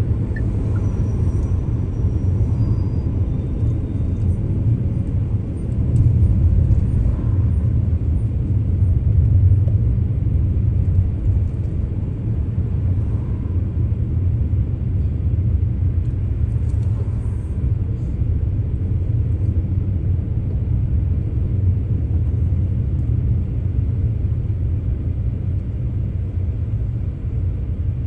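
Steady low rumble of a car being driven, engine and tyre noise, swelling a little about six seconds in before settling back.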